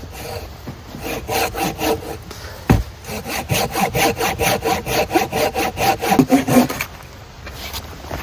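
Hand saw cutting through dead wood with rapid back-and-forth strokes. A short run of strokes is broken by a single knock about three seconds in, then a steadier run goes at about four strokes a second and stops near the end.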